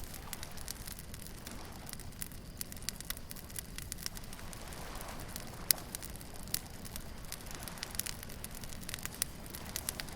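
Beach bonfire crackling, with scattered sharp pops and snaps, the loudest about five and a half seconds in, over a steady low rumble of surf.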